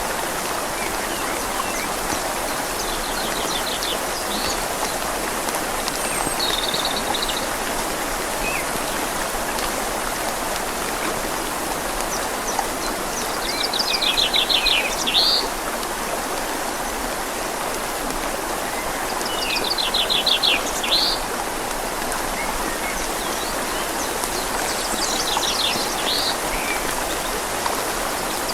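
Steady rushing of a flowing river in the rain, with a songbird singing a short, fast trilling phrase that ends in an upward sweep, repeated every five or six seconds.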